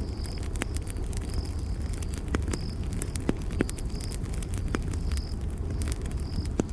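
Campfire burning with a steady low rumble and irregular sharp crackles and pops. A night insect chirps short high notes about once a second over it.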